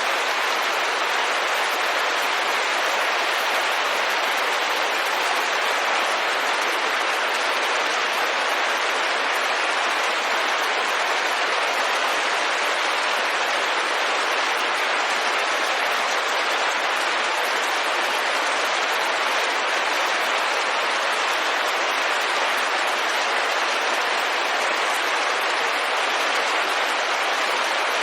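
Steady rain falling on a window: an even, unbroken hiss with no single drops or gusts standing out.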